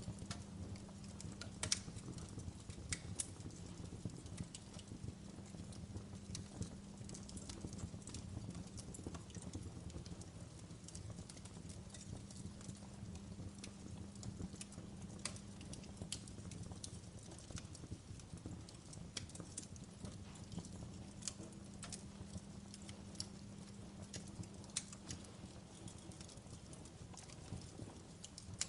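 Fire burning in a fireplace, crackling with irregular sharp pops over a low, steady background.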